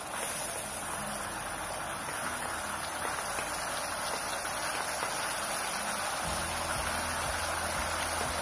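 Spice paste frying in hot oil in a wok: a steady, dense sizzle.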